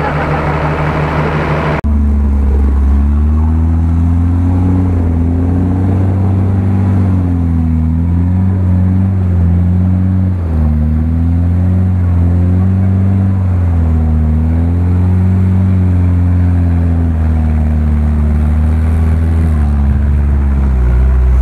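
Off-road 4x4's engine revving up and down under load as it crawls through deep mud, its pitch rising and falling continuously.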